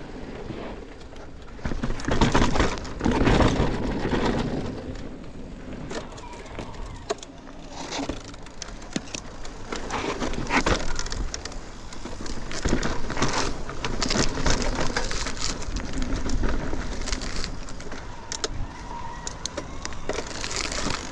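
Mountain bike riding down a dirt trail: tyre noise on dirt and rocks that swells and fades, with many irregular knocks and rattles from the bike over the bumps.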